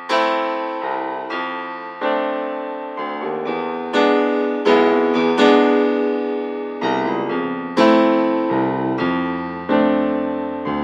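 Background piano music: notes and chords struck about once a second, each ringing and fading away.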